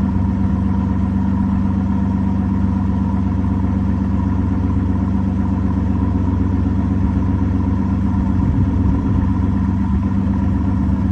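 Aston Martin V12 Vantage S's V12 engine idling steadily after a cold start.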